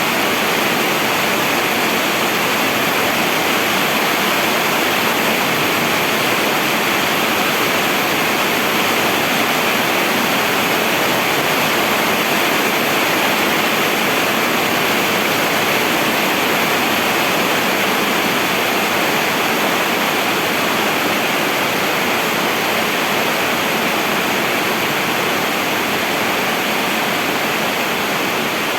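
Steady, heavy rainfall, an even rushing hiss with no separate drops or breaks.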